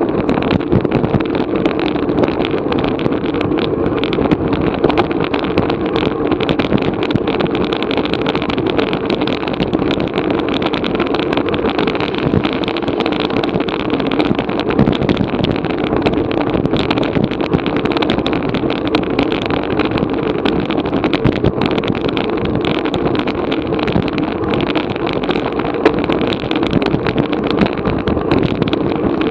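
Steady wind rush and road noise on a bicycle-mounted action camera's microphone while riding at race speed.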